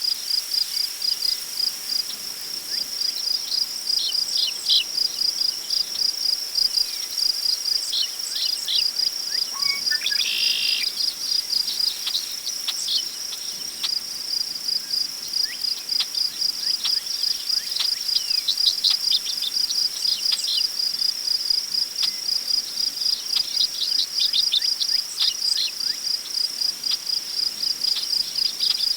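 Crickets chirping in a fast, continuous pulsing trill, with scattered short bird calls over it, including one longer call about ten seconds in, above a faint hiss of prairie wind in grass.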